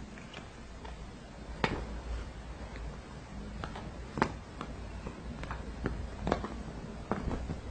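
Irregular sharp clicks and taps, about a dozen, with two louder ones near the start and the middle, over a low steady hum.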